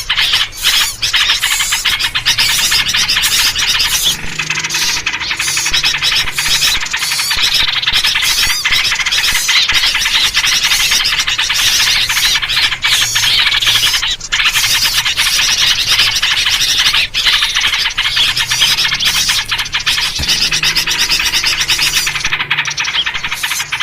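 Dense, unbroken chorus of many small birds chattering and calling at once, including yellow-vented bulbul (trucuk) calls. A fainter low-pitched sound runs underneath twice, about four seconds in and again near the end.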